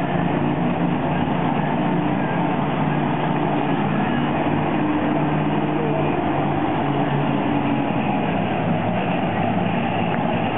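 Monster truck engine running with a loud, steady drone that holds at the same pitch.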